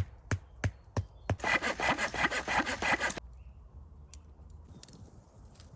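A hand saw cutting through wood in quick, rhythmic back-and-forth strokes for about two seconds, after a series of five sharp knocks on wood. It then stops and only faint small sounds remain.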